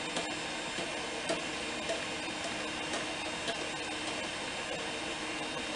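Spoon stirring a thick sauce in a bowl, with scattered light clicks of the spoon against the bowl over a steady background hum.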